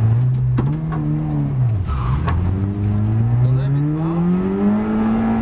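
Citroën Xsara VTS rally car's engine heard from inside the cabin. The revs fall low as the car slows for a tight corner, with a few sharp clicks, then climb steadily as it accelerates out.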